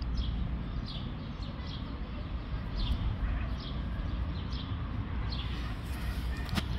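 Small birds chirping, short high calls repeating every half second or so, over a steady low rumble of outdoor background noise; a sharp click near the end.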